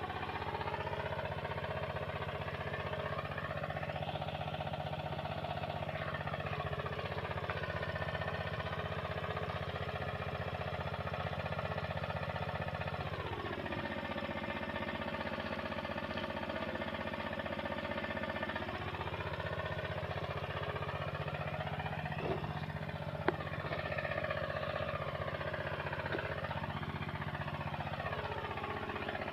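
An engine running steadily, its pitch sliding slowly down and back up several times as its speed changes, with a couple of brief clicks a little after the middle.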